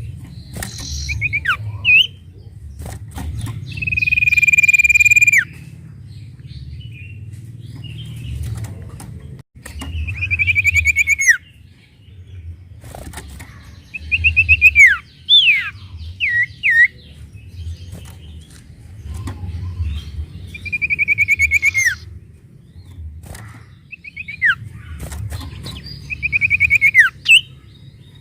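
Sirtu bird singing: about five rapid, buzzy trills at one pitch, each lasting a second or so and ending in a quick downward slide, with short sharp whistled notes between them. A low rumble runs beneath.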